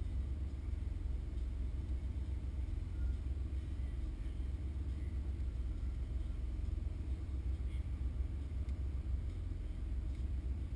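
Steady low rumble of a car standing still with its engine idling.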